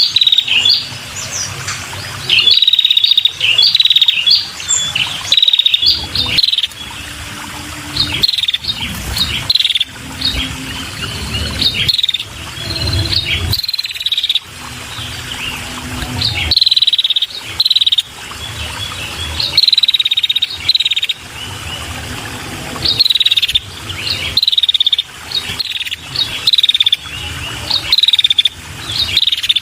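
Female red-headed prenjak calling steadily: short, high, falling chirps repeated in quick bursts every second or two, the kind of female call used to lure male prenjak.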